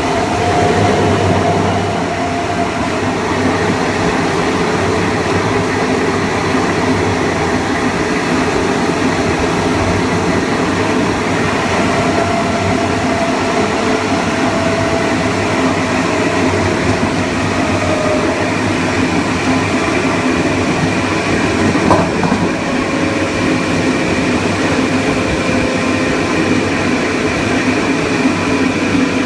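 Long Island Rail Road Kawasaki M9 electric multiple unit running along the line: steady wheel and track noise with the faint whine of its Mitsubishi IGBT-VVVF inverter and AC traction motors, the tones drifting slowly in pitch. A single click comes about two-thirds of the way through.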